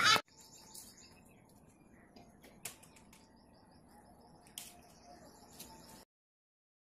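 Faint birds chirping in the background, with a few soft ticks; the sound cuts out to complete silence about six seconds in.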